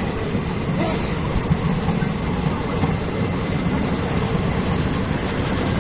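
A train passing close by with a steady, loud, low rumble.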